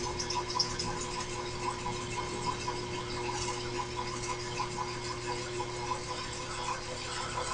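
Small milling machine's spindle running steadily while drilling a hole with a number 7 tap drill for a 1/4-20 thread, a constant hum with faint irregular ticking.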